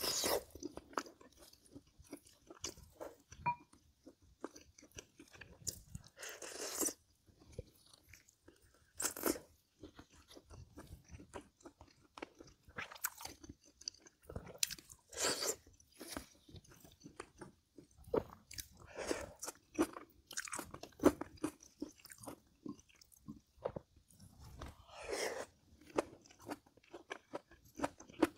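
Close-miked eating: chewing and crunching of food in irregular sharp clicks and smacks, with a few longer, louder mouthfuls.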